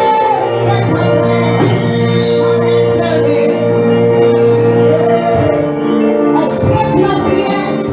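Church worship music: long sustained chords held without a break, changing to a new chord a little past the middle, with a voice singing a few wavering notes in the second half.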